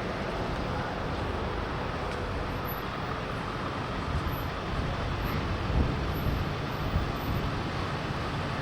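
Steady rumbling noise like road traffic, with a couple of short low thumps in the second half.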